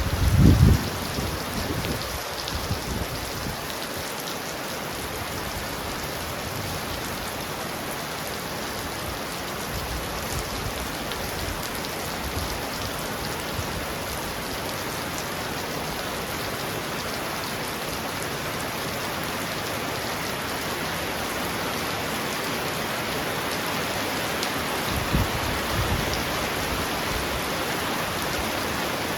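Heavy rain pounding on a roof, a steady hiss, with a short low rumble of thunder at the start and another, weaker one about 25 seconds in.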